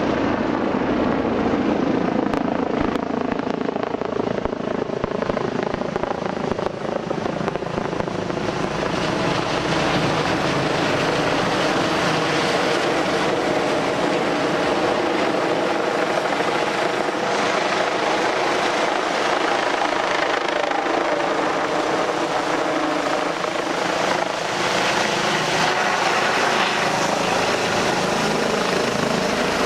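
Search and rescue helicopter running close by: a loud, steady rotor and turbine noise whose pitch lines waver slowly up and down.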